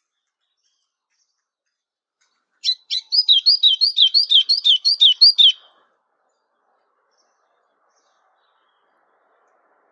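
A songbird sings one loud phrase starting a little under three seconds in: a short opening note, then a rapid run of clear, down-slurred whistled notes, about four a second, ending before the six-second mark.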